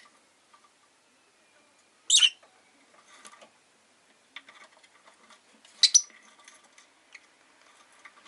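Rosy-faced lovebird giving short high chirps: one about two seconds in and a quick double call about six seconds in, with faint clicks and small chatter between.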